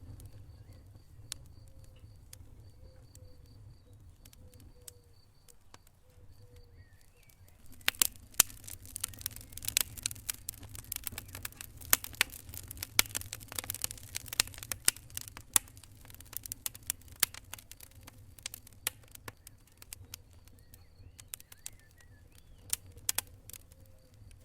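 Wood fire in a fireplace crackling: sharp pops and snaps over a low rumble of burning. The crackling thickens to a busy spell about a third of the way in, then thins out again.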